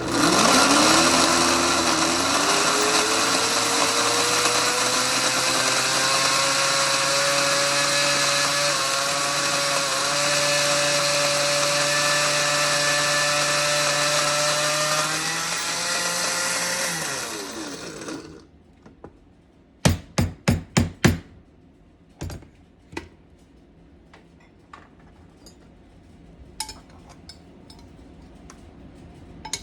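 Electric food processor motor grinding a dry mix. It spins up with a rising whine, runs steadily for about seventeen seconds, then winds down and stops. A quick cluster of sharp clicks and knocks follows a couple of seconds later.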